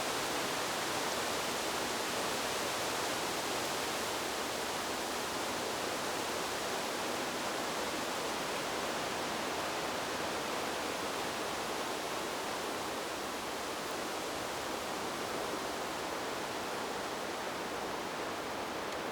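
Steady, even rushing of wind through trees, with no distinct gusts or separate leaf rustles, close to pink noise.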